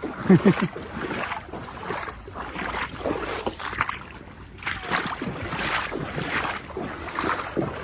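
Floodwater sloshing and splashing around legs wading knee-deep, in repeated surges with each step, with wind noise on the microphone.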